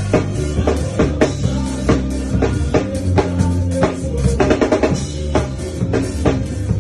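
Drum kit playing a funk-soul groove, with kick and snare hits several times a second, over a bass line that steps from note to note.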